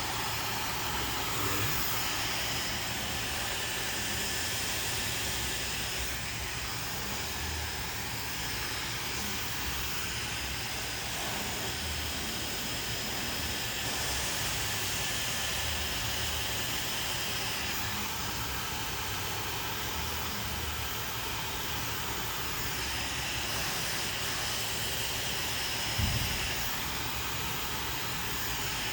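Handheld hair dryer blowing steadily, a constant airy rush, with a brief low knock near the end.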